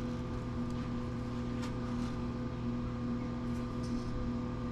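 A steady electrical hum with a few faint clicks and taps.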